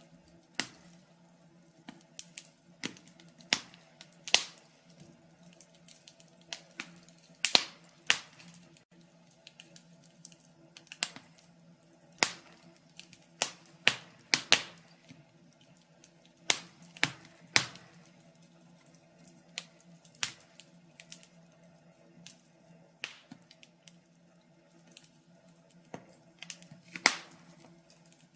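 Log fire in a fireplace crackling, with irregular sharp pops and snaps, one or two every second or so, some much louder than others, over a faint steady low hum.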